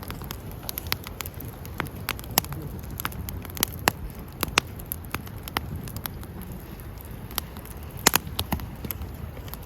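Wood campfire crackling: irregular sharp pops and snaps over a low steady rush, with a cluster of louder snaps about eight seconds in.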